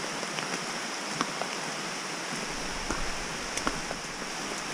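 Heavy rain pouring down: a steady hiss with scattered sharp ticks of drops striking a close surface.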